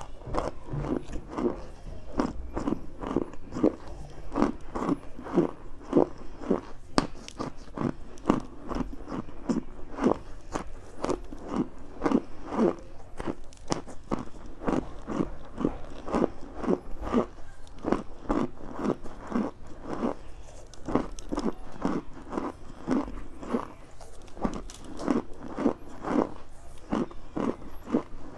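Chunks of cornstarch being chewed right at a clip-on microphone: a steady run of crunching chews, about two a second.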